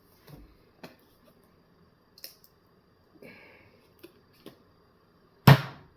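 Soft clicks and rustles of hands handling food and its wrapping at a table, then a single loud thump near the end.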